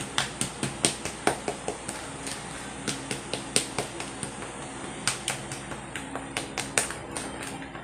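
Spoon clinking and scraping against a bowl while stirring dry cake ingredients (flour, sugar, cocoa) to break up clumped sugar. The sharp, irregular clicks come about two or three a second.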